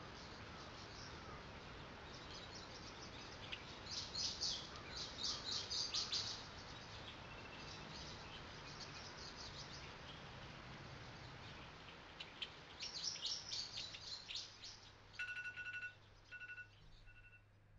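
Birds chirping in quick spells over a steady low outdoor background noise. Near the end a phone starts ringing in short repeated electronic tones.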